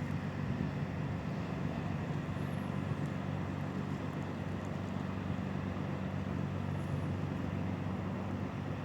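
River motor ship's engine running with a steady low drone, over a haze of water and wind noise.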